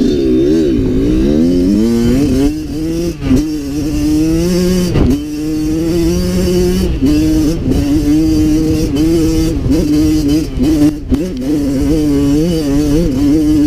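Kawasaki KX112 two-stroke dirt bike engine being ridden, the revs rising and falling again and again as the throttle opens and closes, with a few brief dips.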